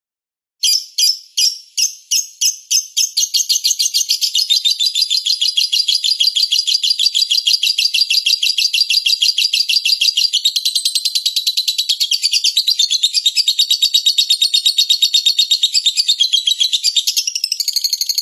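A small songbird's fast, high chattering trill. It starts after a brief gap as separate chirps and soon speeds into a dense, continuous run of notes.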